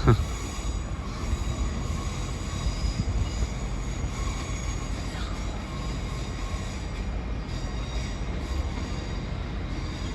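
Diesel passenger train at a station platform, its engines running with a steady low rumble and faint high-pitched tones.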